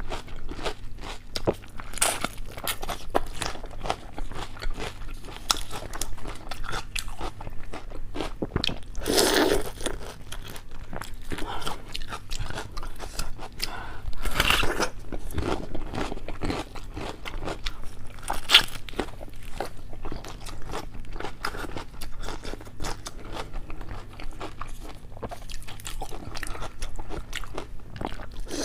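Close-miked eating: a continuous stream of small crunches and chewing, with a few louder bites about a third, half and two-thirds of the way through.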